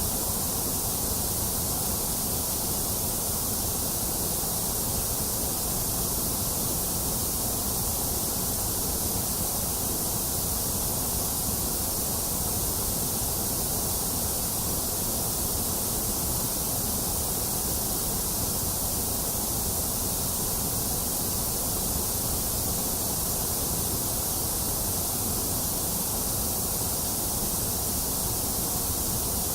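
Steady white noise: an even, unchanging hiss with a low rushing underlayer and no breaks or events.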